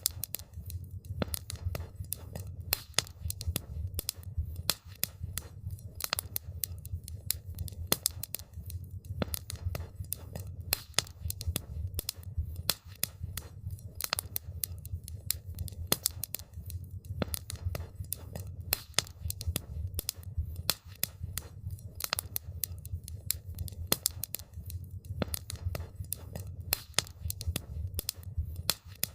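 Wood fire crackling steadily, with many small sharp pops and snaps scattered irregularly over a low, steady rumble of burning.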